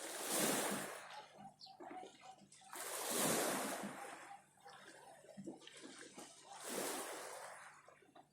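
Sea water splashing and washing in three surges, each swelling and fading over about a second, about three and a half seconds apart.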